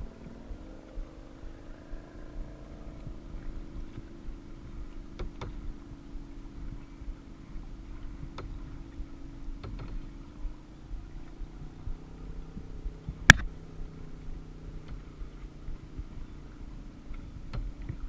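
A steady engine hum that shifts in pitch a few times, with scattered sharp clicks and one loud knock about thirteen seconds in.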